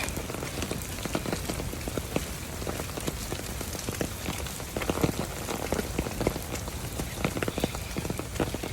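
Steady rain falling, with many irregular close taps of drops landing.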